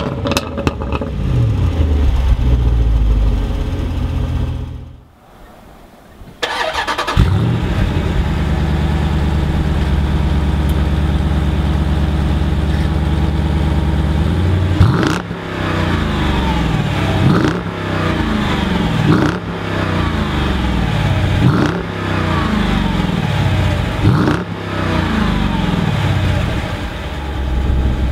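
Jeep Grand Cherokee SRT8's 6.4-litre V8 starting with a loud flare, settling to a steady idle, then revved in about five sharp blips, each falling back to idle. Before that, the Range Rover Sport SVR's 5.0-litre supercharged V8 is revving and drops away to near quiet.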